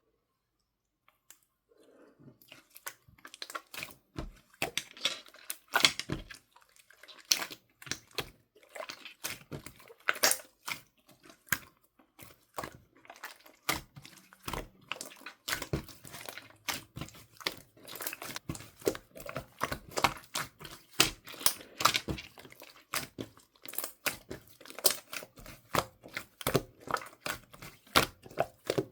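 Slime being squished and pressed by hands, making a dense run of sticky crackling and popping clicks, starting about two seconds in.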